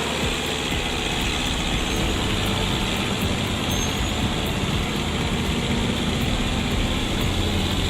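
Heavy truck engine running steadily with road noise.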